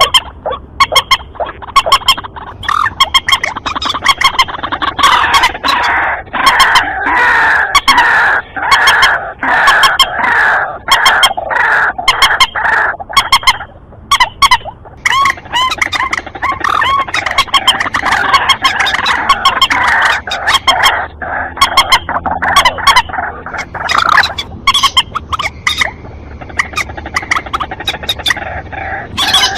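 Bird-lure recording of white-breasted waterhen and common moorhen calls: loud, rapid, repeated sharp notes and croaking calls, densely overlapping, with a brief lull about halfway.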